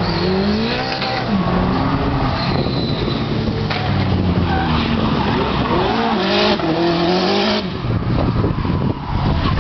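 Car engines revving, their pitch rising and falling repeatedly, with a hissing burst of noise around two-thirds of the way through.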